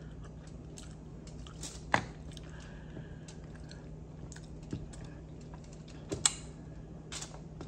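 Close-up chewing and lip-smacking while eating mussels, with scattered light clicks of the mussel shells being handled; two sharper clicks stand out, about two seconds in and about six seconds in.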